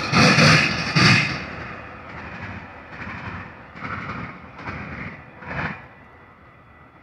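Metra commuter train's last car passing and pulling away, its loud wheel-on-rail rumble dying off about a second in. After that come a string of fading wheel clacks on the track, roughly one every two-thirds of a second.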